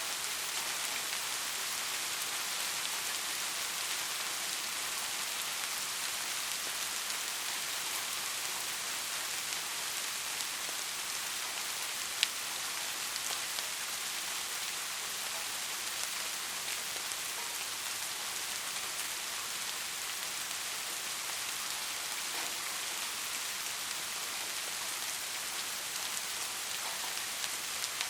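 Steady rain falling, an even hiss of many drops. One sharp tick about twelve seconds in.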